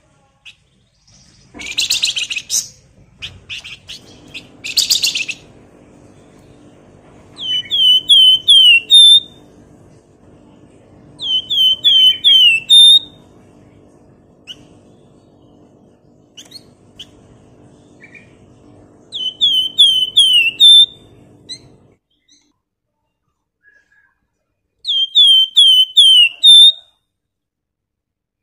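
Javan fulvetta (flamboyan) singing: four phrases of four or five quick whistled notes, each note sliding downward. Two short harsh bursts come near the start, and a faint low hum runs under the middle of the song.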